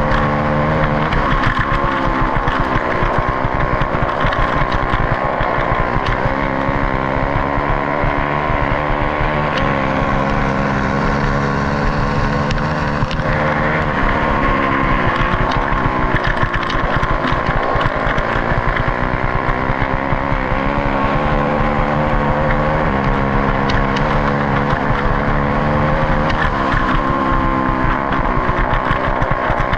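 Racing motorcycle engine held at high revs on the straights and eased off through the turns, its pitch rising and falling repeatedly.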